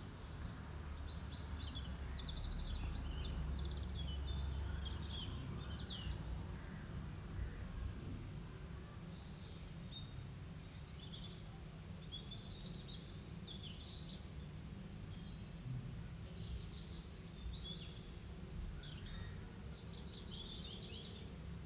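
Birds calling in many short, high chirps over a low steady hum.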